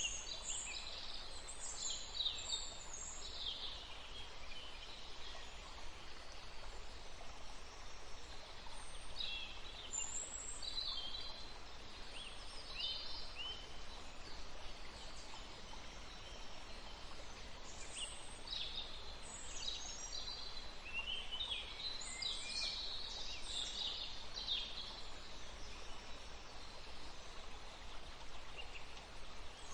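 Small songbirds chirping and trilling in bursts over the steady rush of a small forest stream.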